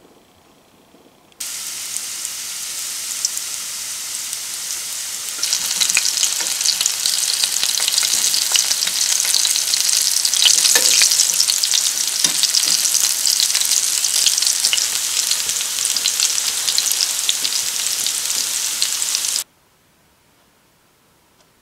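Flour-dredged squirrel legs frying in hot oil in a cast-iron skillet: a steady sizzle with crackling spatters. It starts about a second in, grows louder a few seconds later, and cuts off suddenly near the end.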